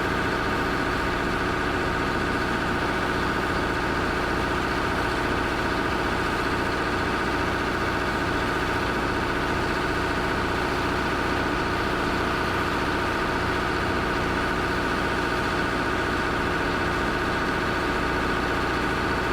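An engine running steadily at constant speed, a level hum with several steady tones over a low, even pulse.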